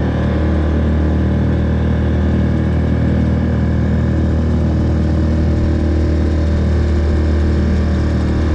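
Boat's outboard motor running at a steady speed, loud and unchanging, as the boat motors to a new fishing spot.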